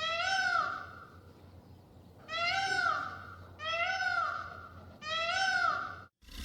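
A domestic cat meowing four times, each meow rising and falling in pitch, with a pause of one to two seconds between calls. The last meow is cut off abruptly near the end.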